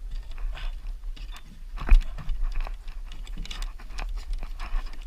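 Irregular crunching steps, as of someone moving over snow, with one louder knock about two seconds in and a low rumble of wind or handling on the microphone underneath.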